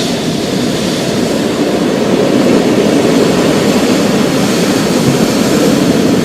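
Low, continuous rolling thunder, slowly swelling, over a steady hiss of rain.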